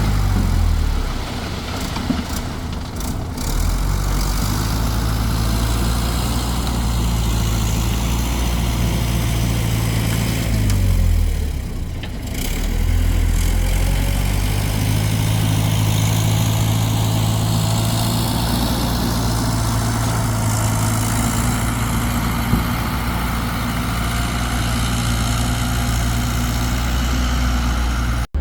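Excavator's diesel engine running steadily. Its pitch dips briefly about eleven seconds in, then rises back.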